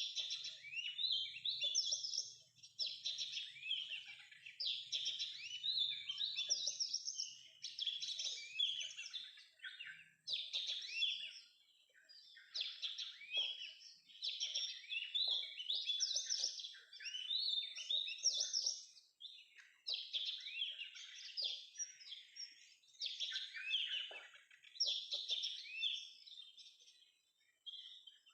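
Oriental magpie-robin (kacer) song: a steady run of varied, high whistled phrases, each a second or two long with brief pauses between.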